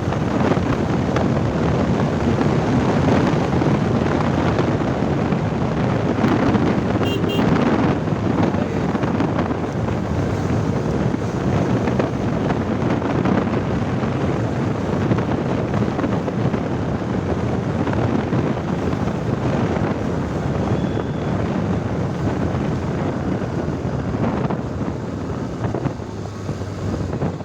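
Kawasaki Ninja ZX-10R's inline-four engine running as the bike rides along, mixed with heavy wind noise on the microphone. It eases off a little near the end.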